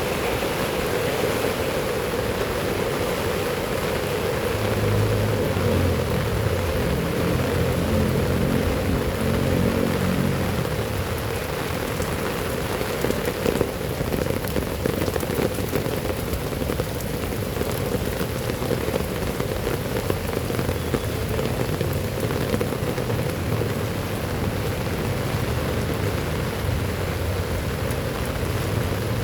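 Heavy rain falling steadily. A low rumble rises about five seconds in and fades by about eleven seconds.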